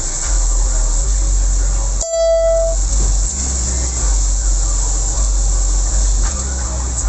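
Steady rain with road traffic rumbling past. About two seconds in, a vehicle horn gives one short beep.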